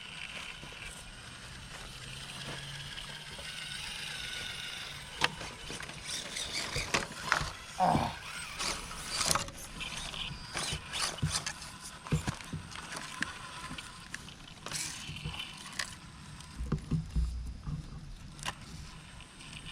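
Small electric RC crawler truck's motor and gears whining steadily at first. Then a long run of irregular clicks and knocks as the truck crawls over the course.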